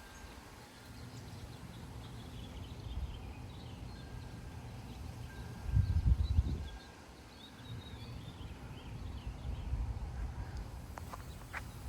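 Gusty wind buffeting the microphone as a low rumble, with one stronger gust about six seconds in. Birds chirp faintly in the background.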